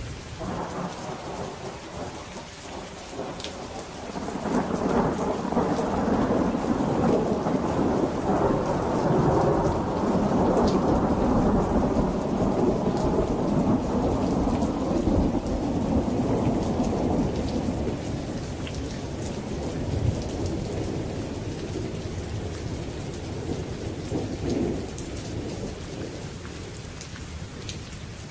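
Steady rain falling, with a long roll of thunder that builds about four seconds in, rumbles for over ten seconds and slowly dies away, followed by a smaller rumble near the end.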